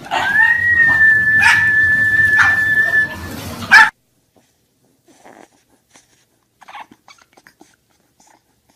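Dogs in a hallway: scattered knocks and a high, steady whine-like tone held for about three seconds, ending in a sudden loud hit just before four seconds in. Then only faint, short whimpers from a bulldog puppy.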